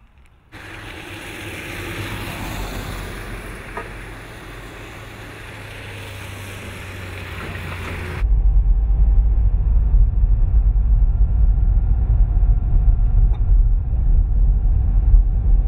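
Steady rushing noise of heavy storm rain or hail. About eight seconds in it cuts abruptly to a louder, deep, low rumble.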